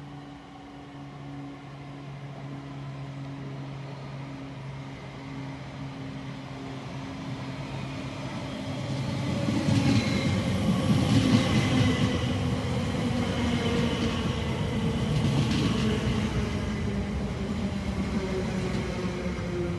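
A train running through the station on the rails. It grows louder from about eight seconds in, with wheels clattering over the rail joints, then a hum that slowly falls in pitch as it goes by.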